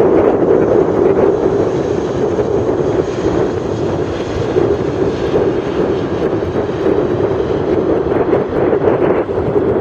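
Jet airliner's engines running at takeoff thrust: a steady, loud rush of engine and air noise with no break.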